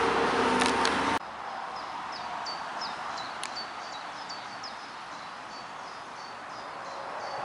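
A loud steady hum and hiss cuts off abruptly about a second in. After it, a small bird chirps one short high note over and over, about twice a second.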